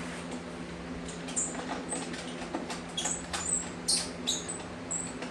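About seven short, high-pitched squeaks or chirps, some gliding downward, from about a second and a half in until near the end, over a steady low hum.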